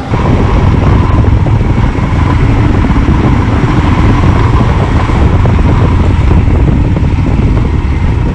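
Royal Enfield Himalayan motorcycle being ridden: its single-cylinder engine runs steadily under loud, rushing road and wind noise.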